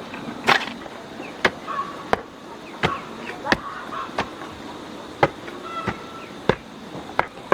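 Steady chopping: about ten sharp strikes of a blade, roughly one every 0.7 seconds.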